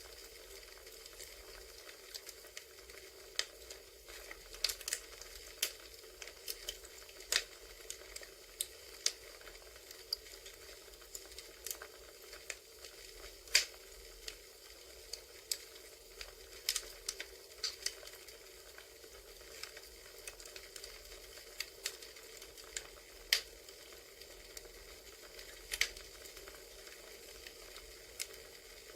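Recorded crackling wood fire: a steady soft hiss with irregular sharp pops and snaps, a few much louder than the rest.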